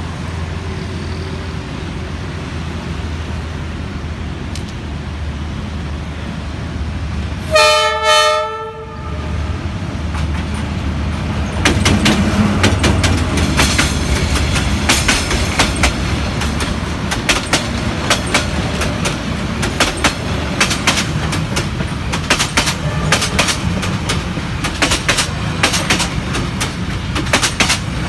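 D19E diesel-electric locomotive running as it approaches, with a short horn sounding about eight seconds in, in two quick blasts. From about twelve seconds in comes the rapid clickety-clack of the train's boxcars and passenger coaches rolling past over the rail joints.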